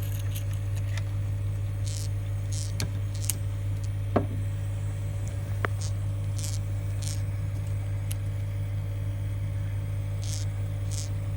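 Aquarium pump running with a steady low hum and irregular light ticks and clicks, with a few sharper clicks in the first half. The noise persists even though it is fully tensioned.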